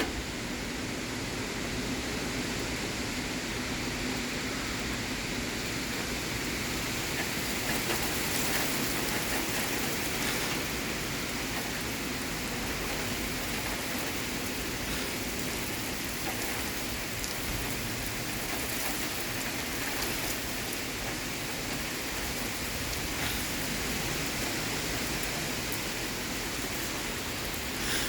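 Heavy rain of a severe thunderstorm falling steadily, an even rushing noise with a few faint individual drops or gusts standing out.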